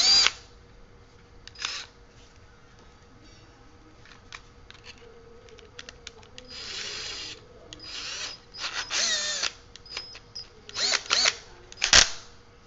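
Cheap Fogo cordless drill/driver's motor run in several short bursts on the trigger, its whine rising and falling in pitch as the speed changes, with a sharp click near the end.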